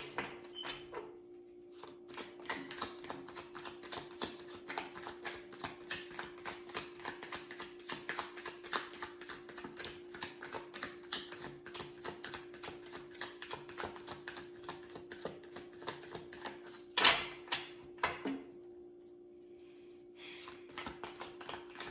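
Tarot deck being shuffled by hand: a rapid patter of card taps, several a second, with one louder card snap about seventeen seconds in. A faint steady hum runs underneath.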